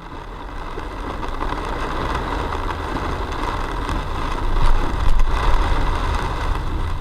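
A steady rushing noise over a deep rumble, swelling slightly about two-thirds of the way through and beginning to fade near the end.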